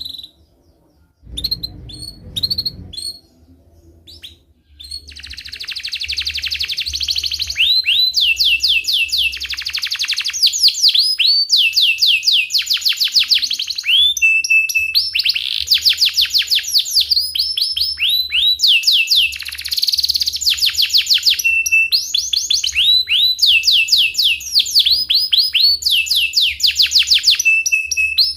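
Domestic canary singing. A few short chirps come first, then from about five seconds in a long unbroken run of fast rolling trills, rapid repeated high notes sweeping down in pitch.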